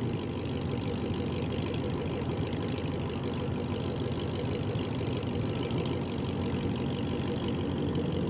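A car engine running steadily with road noise, with no sudden change in level.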